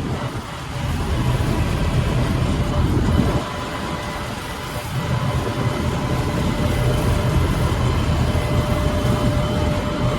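Preet 987 combine harvester's engine running as the machine drives along the road: a steady low rumble with a faint steady whine above it. The rumble eases about three seconds in and builds again a second or so later.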